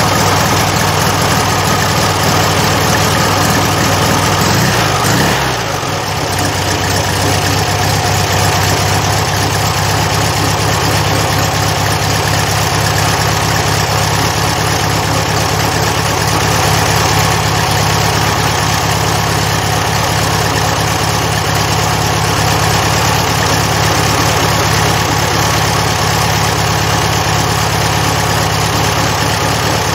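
Rebuilt VW Beetle 1300 air-cooled flat-four engine idling steadily. Its speed shifts briefly about five seconds in, then settles back to an even idle.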